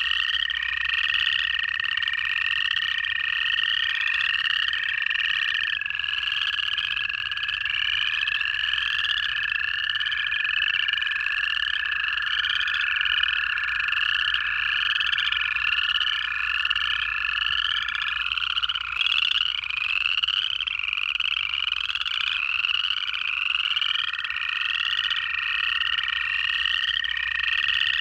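Dense chorus of upland chorus frogs, their rising trills repeating over and over without pause. Underneath run the long, steady trills of American toads: one holds to about 6 s in, another carries on to about 18 s, and a new one starts near 24 s.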